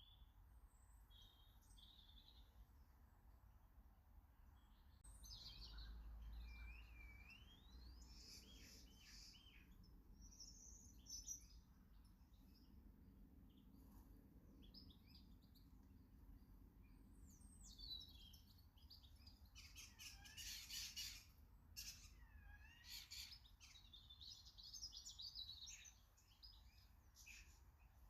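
Small garden birds chirping and calling: short chirps mixed with rising and falling whistled notes, with a few sharp clicks about two-thirds of the way through.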